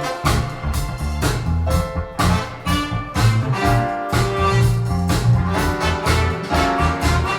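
Music with a strong bass line and a steady beat, played through Teufel Ultima 40 Mk3 loudspeakers in a sound demo.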